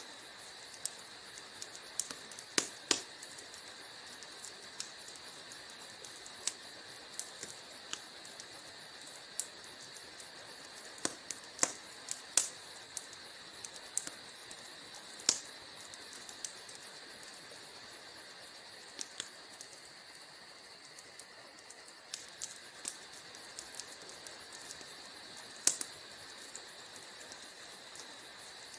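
Wood fire crackling: a steady hiss with irregular sharp pops and snaps, a handful of them much louder than the rest.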